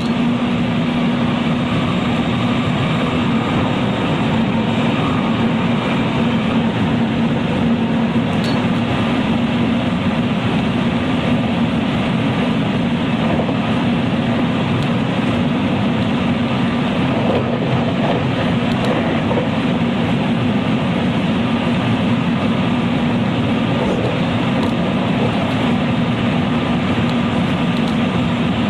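Interior running sound of a JR West 223 series electric train's motor car at steady speed: continuous rail and wheel noise with a constant underlying hum.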